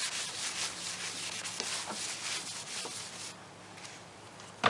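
Quick back-and-forth rubbing strokes as the dented spot on a car's painted body panel is wiped clean, stopping about three seconds in. A short knock near the end.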